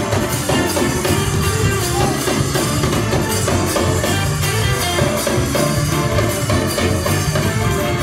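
Live church band music with drums keeping a steady beat.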